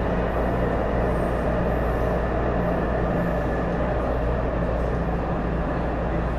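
Taipei Metro Series C301 train running at steady speed, heard from inside the car: an even rumble of wheels on rail with a steady low hum and a faint steady whine.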